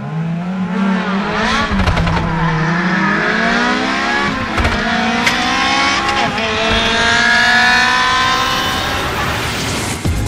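Rally car engine revving hard and accelerating through the gears, its pitch climbing and dropping back at two shifts, about four and a half and six seconds in.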